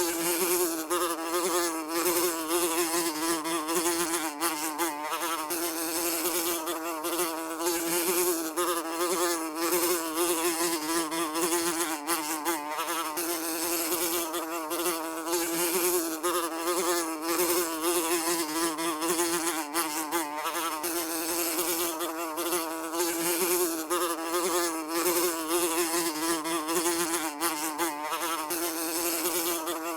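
A fly buzzing continuously in flight, a steady wingbeat drone whose pitch wavers slightly as it moves.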